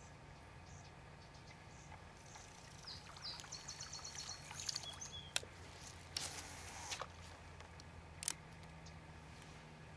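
Marsh birds calling, with a run of quick high chirps from about three to five seconds in, over a steady low hum. About six seconds in there is a brief rush of noise, and two sharp clicks stand out, one before it and one after.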